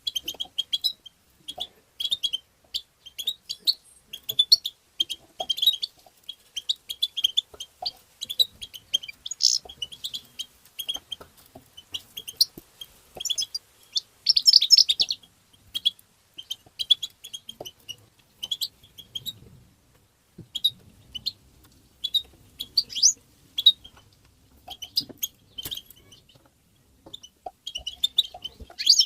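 European goldfinch twittering: rapid runs of short, high chirps and trills in quick bursts, with two brief lulls, one about two-thirds of the way through and one near the end.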